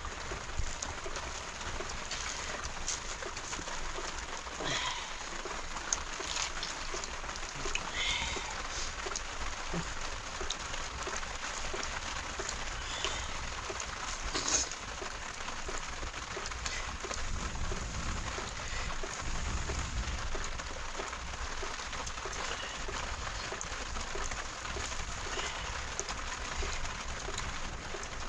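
Steady rain falling, with scattered drop clicks and a few faint bird calls.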